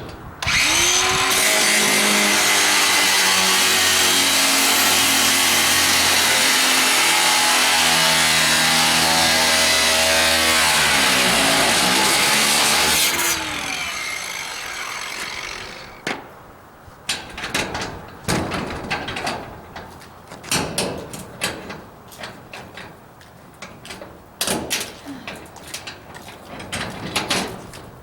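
A motor spins up quickly, runs steadily with a loud hiss for about ten seconds, then winds down with falling pitch. After it, a series of knocks and clicks.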